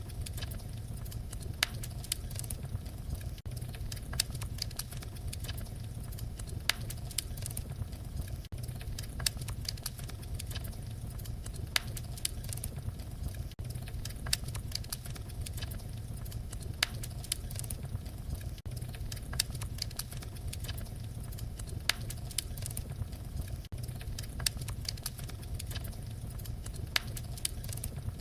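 Wood fire crackling: a steady low rumble of the flames with frequent sharp, irregular pops and snaps.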